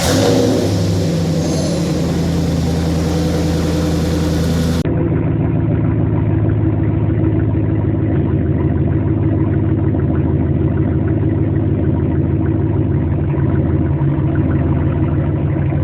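2018 Ram Rebel pickup with its muffler deleted, running at a steady idle right after starting, the exhaust drone loud and even. The tone shifts abruptly about five seconds in.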